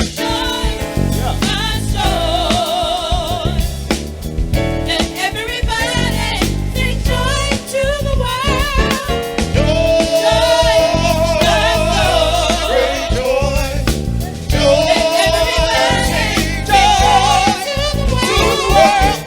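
Gospel singing with strong vibrato over keyboard and drum accompaniment.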